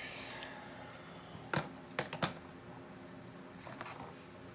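Paper crafting handling: three sharp clicks, about a second and a half, two seconds and a little after two seconds in, with light rustling and a faint steady hum behind.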